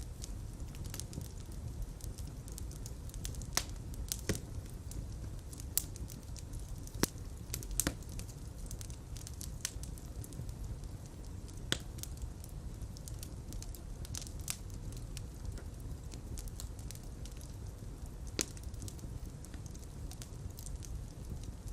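Fire crackling in a fireplace: a steady low rumble of flames with scattered sharp pops and snaps.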